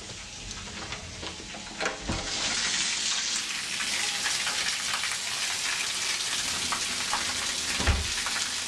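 Heavy rain pouring down in a steady hiss that grows louder about two seconds in. A dull thump comes near the end.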